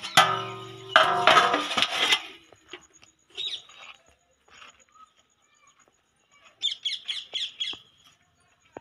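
A bird chirping: one high chirp a few seconds in, then a quick run of about six short chirps near the end. The first two seconds hold two loud, rough bursts of noise.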